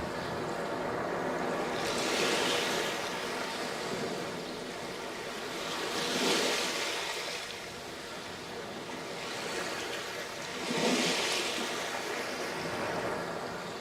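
Sea waves breaking on a sandy beach, a steady wash of surf that swells three times as each wave comes in, about every four to five seconds.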